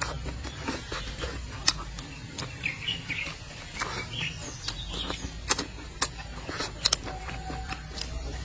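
Close-miked chewing and wet mouth clicks from eating braised duck, coming at irregular intervals. A few short bird chirps sound in the background about a third of the way in.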